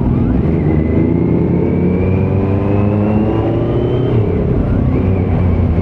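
Kawasaki Z900's inline-four engine through a Leo Vince muffler with no dB killer, revs climbing steadily for about three and a half seconds, dropping sharply about four seconds in, then climbing again near the end.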